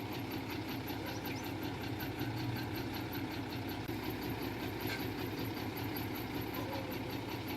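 Heavy construction machine's diesel engine running steadily, with a fast, even high ticking over the engine note.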